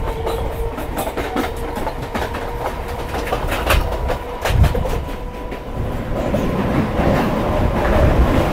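Two trains running past each other on adjacent tracks, heard from an open train doorway: steady rumble with fast clicking of wheels over rail joints. The sound grows louder near the end as the train runs alongside a steel truss bridge.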